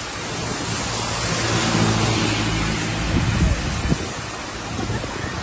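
Heavy rain falling steadily. A vehicle passes on the wet road: its engine hum and tyre hiss swell from about a second in and fade by about three and a half seconds.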